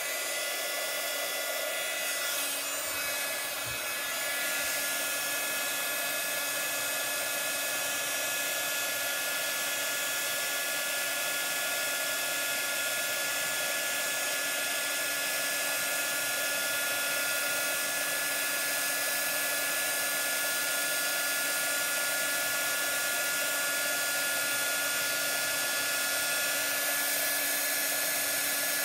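Embossing heat tool blowing steadily with a whining motor tone, heating white embossing powder to melt it onto a stamped card.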